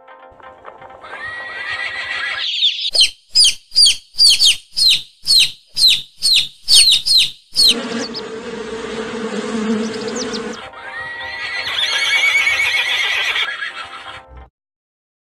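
A horse neighing. The loudest part is a run of about a dozen quick, high-pitched pulses in the middle, followed by a lower, steadier call.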